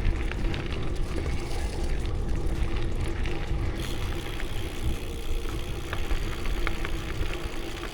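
Low, steady rumble of wind buffeting the microphone while riding a bicycle, with a few light clicks.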